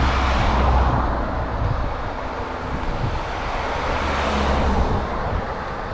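Road traffic going by: cars passing, their noise swelling twice over a steady low road rumble.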